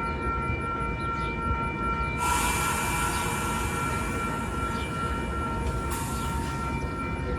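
Train running with a steady low rumble and a few steady whining tones; about two seconds in a loud hiss starts suddenly and lasts about five seconds, surging again near the end.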